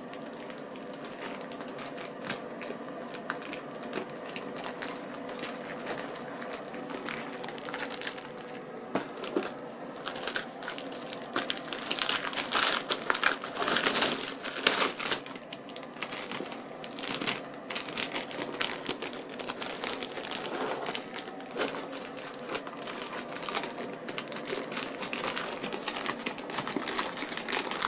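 A Kellogg's Rice Krispies Treat wrapper crinkling and crackling as it is pulled and picked at, a stubborn wrapper that is hard to get open. The crackling comes in irregular bursts, busiest and loudest about halfway through.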